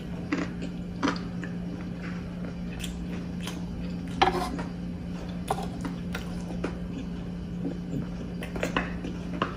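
Close-up chewing and mouth sounds of someone eating squid, with scattered light clicks of a wooden spoon against the sizzling plate, the sharpest about four seconds in, over a steady low hum.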